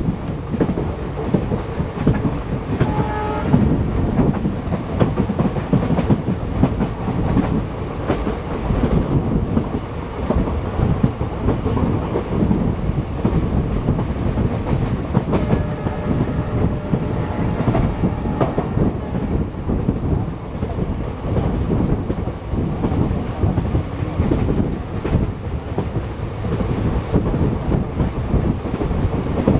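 Train running along the track: a steady rumble with wheels clicking over rail joints.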